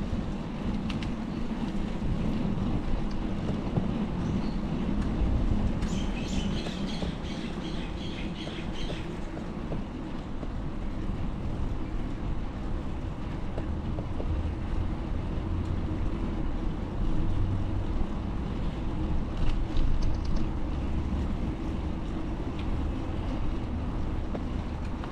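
Steady rumble of street traffic and wind heard from a moving bicycle. A short run of rapid high chirps or squeaks comes about six seconds in and lasts a few seconds.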